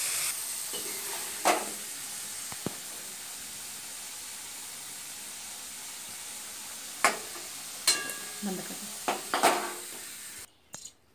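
Potato cubes sizzling steadily in hot oil in an aluminium kadhai, with a steel ladle clinking against the pan and bowl about six times as the fried potatoes are scooped out. The sizzle cuts off suddenly near the end.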